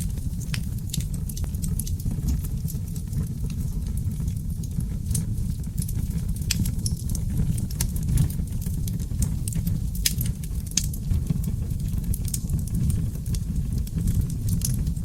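Wood fire of seasoned oak logs burning in a fireplace: a steady low roar of flames with frequent sharp crackles and pops at irregular intervals.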